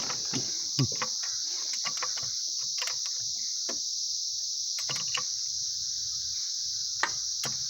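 Steady high-pitched chirring of crickets, with scattered light clicks and knocks.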